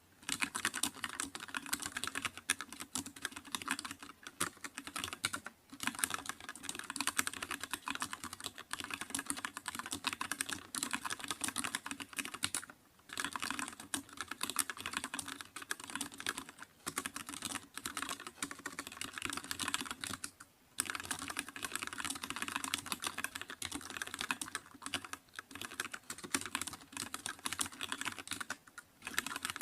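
Fast, continuous typing on a computer keyboard: a dense run of clicking keystrokes, broken by a few brief pauses of about half a second.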